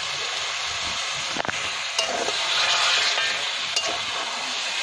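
Marinated chicken sizzling as it fries in a steel kadai, with a steady hiss. A metal spatula stirs the pieces and clicks against the pan a few times.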